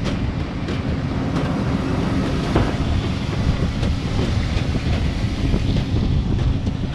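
Steady low rumble of a moving vehicle heard from inside, with faint scattered rattles and clicks.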